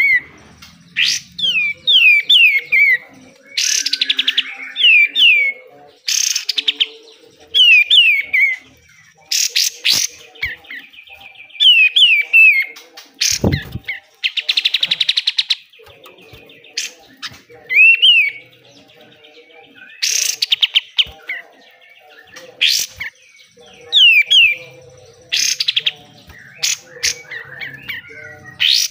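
A kapas tembak (katem) singing harsh 'besetan' bursts: quick runs of three to five falling chirps, alternating with rapid buzzy rattles. A single low knock comes about halfway through.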